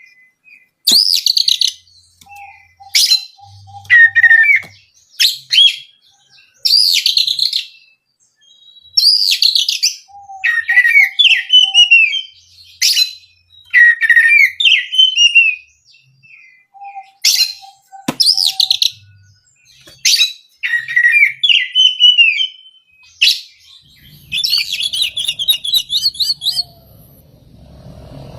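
Oriental magpie-robin (kacer) singing loud, varied phrases of sweet gliding whistles and chattering notes, in bursts a second or two apart with short pauses between them. Near the end it breaks into a longer, scratchy run of notes over a low rumble.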